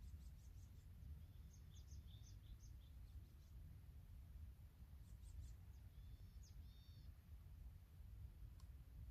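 Faint, high, short chirps of a small bird in two bouts, one from the start to about three and a half seconds in and another from about five to seven seconds, over a low, steady rumble of outdoor background noise.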